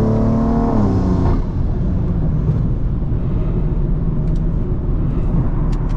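BMW M340i's big-turbo B58 inline-six and exhaust running under way. The steady engine tone drops away about a second in, as on a lift-off or gear change, and leaves a lower rumble with road noise.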